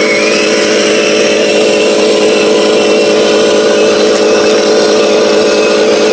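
RC Scania 770S truck's engine sound running at a steady note, with a thin high whine that rises slightly at the start.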